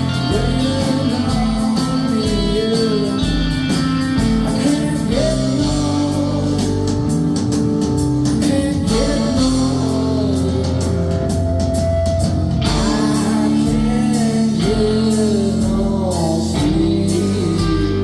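Live rock band playing: a sung vocal line over electric guitars, bass and drums.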